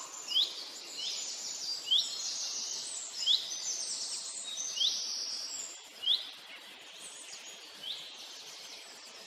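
A bird repeats a short, rising chirp about every second and a half, six times, over a high background chorus that is louder in the first half and then fades.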